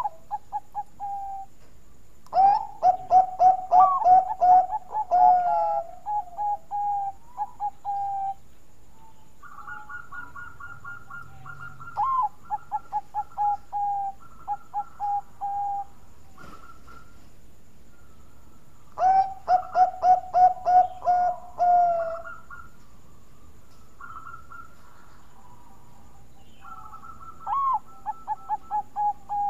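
Zebra dove (perkutut) of the Bangkok strain cooing: four phrases of quick, repeated short notes, each opening with a rising note and running into a fast low trill, with a higher series of notes in some phrases and short pauses between them.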